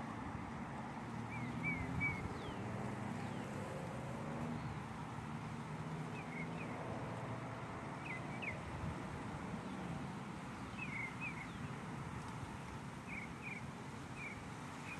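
Outdoor ambience: short high bird chirps every second or two over a steady low background noise.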